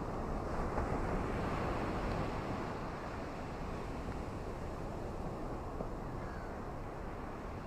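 Ocean surf washing on a beach: a steady low rush that swells over the first couple of seconds, with a faint bird chirp about six seconds in.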